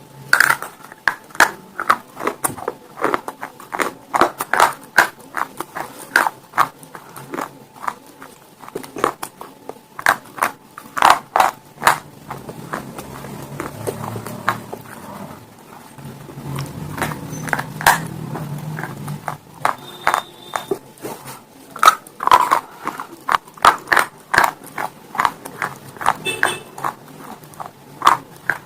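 Close-miked biting and crunching of slate stone pieces: quick clusters of crisp cracking crunches, easing to softer chewing for several seconds in the middle before the crunching picks up again.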